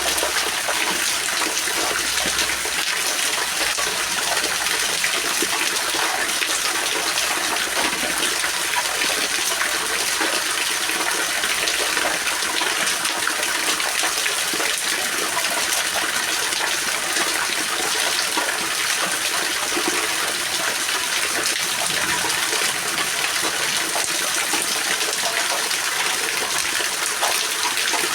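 Steady rain falling, an even, unbroken hiss of water with no separate drops or gusts standing out.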